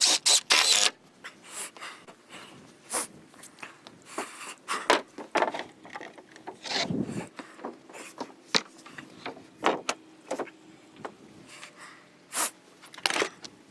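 Impact driver driving a screw into composite decking in two short loud bursts about the first second, followed by scattered knocks, scrapes and handling clicks on the boards.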